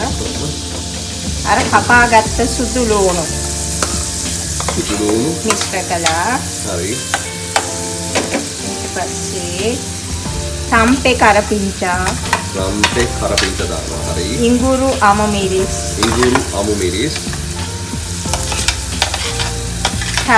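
Margarine frying in a saucepan, sizzling steadily as chopped aromatics are spooned in and stirred. Several louder wavering pitched sounds rise and fall over the sizzle.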